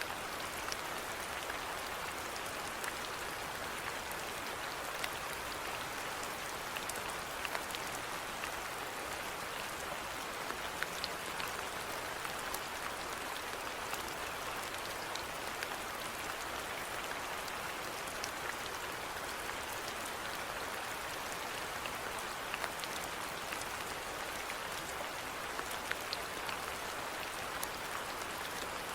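Steady rainfall: an even hiss of rain with many separate drops ticking on a surface.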